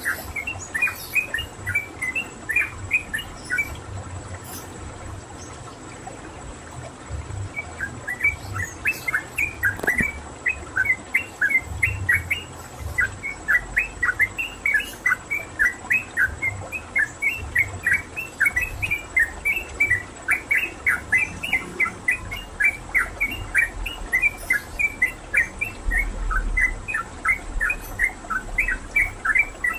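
Yellow-vented bulbul (trucukan) singing loud, rapid runs of short chirping notes, breaking off for about four seconds a few seconds in, then chirping almost without pause.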